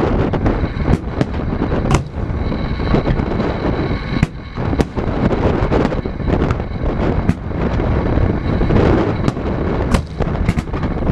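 Aerial fireworks shells bursting in a rapid, irregular series of sharp bangs over a steady low rush of wind on the microphone.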